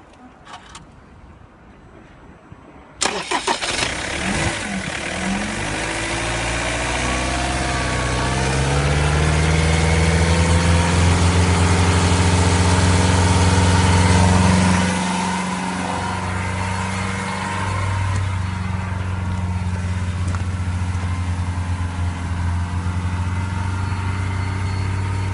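Ford Transit 2.2-litre P8FA four-cylinder diesel engine starting up about three seconds in. Its speed climbs over several seconds and holds, then drops back about halfway through to a steady idle.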